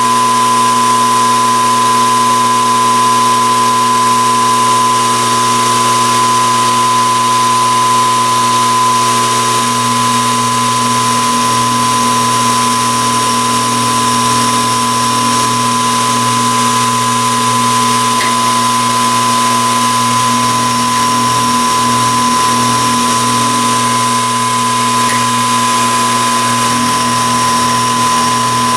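Metalworking machine tool running steadily with a high, even whine.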